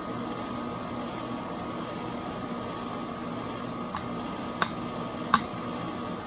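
Three sharp taps, each over in an instant, spaced a little over half a second apart in the second half: a woodpecker pecking at sunflower seeds. They sit over a steady mechanical hum, with two faint high chirps in the first two seconds.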